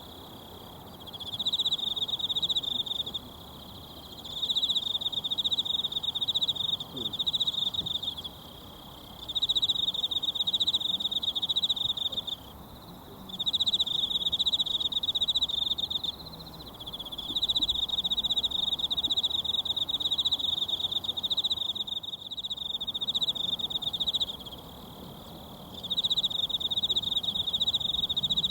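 An insect trilling high and fast in repeated runs of a few seconds, each broken by a pause of a second or two, over the faint steady murmur of a mountain stream.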